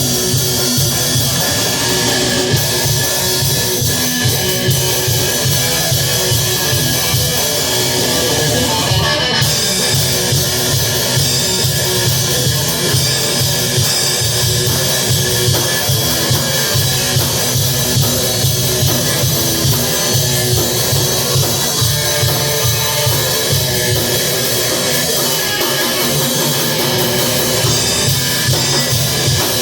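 Guitar and drum kit playing rock together, a steady, loud, continuous groove.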